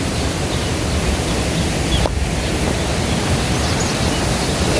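Steady rush of fast-flowing mountain river water, an even unbroken noise.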